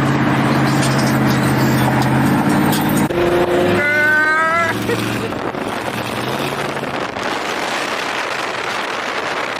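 Car engines running with a steady low drone for about three seconds, then a short high rising tone about four seconds in, followed by a steady rumble of traffic noise.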